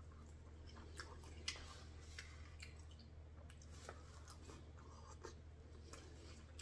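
Faint chewing of a mouthful of rice, with a few small clicks of a fork against the food container, the sharpest about one and a half seconds in, over a steady low hum.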